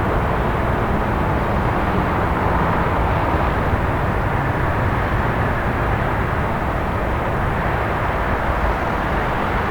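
Steady city night ambience: a continuous, even wash of distant traffic noise with no distinct events standing out.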